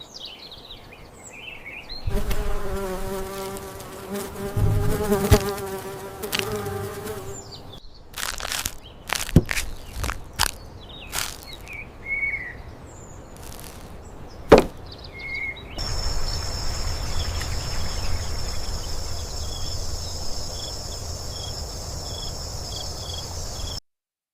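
Buzzing of a flying insect, wavering in pitch. Then scattered clicks and knocks, then a steady hiss with high, evenly repeated cricket-like chirps that cuts off suddenly near the end.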